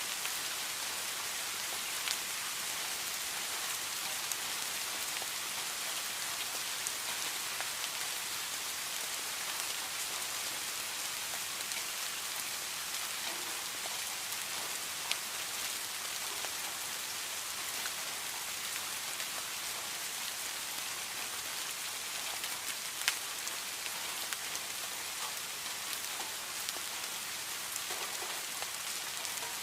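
Heavy rain falling steadily, a dense even hiss with a few louder individual drop hits standing out here and there.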